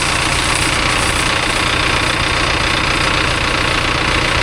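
Mahindra tractor's diesel engine idling steadily, left running at idle after a wash.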